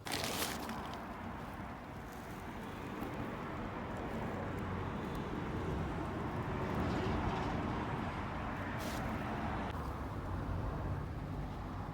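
Car engine running steadily after an abrupt start, getting a little louder toward the middle and dulling slightly near the end.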